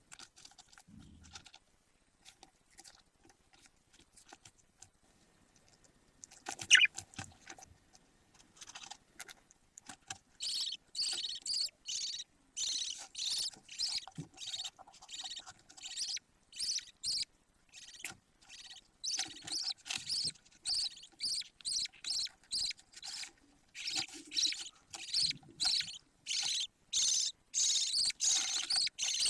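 Budgie chicks calling: a long run of short, hoarse cheeps, about two a second, beginning about ten seconds in. Before that there are faint scratching sounds and one sharp knock about seven seconds in.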